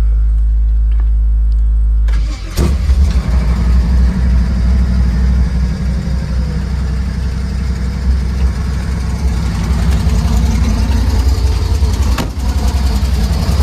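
A 1968 Chevrolet Impala's engine running on a cold start. It hums steadily at first; about two seconds in, the sound turns louder and rougher, with a sharp click, and it runs unevenly from then on. A second click comes near the end.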